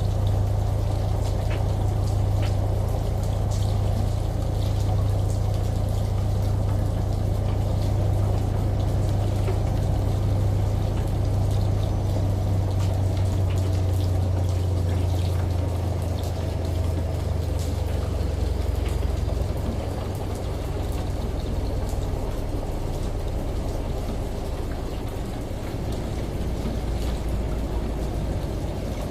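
Rain and running water hissing, with scattered drops ticking, over the steady low hum of a washing machine; about two-thirds through the hum drops to a lower pitch and turns a little quieter.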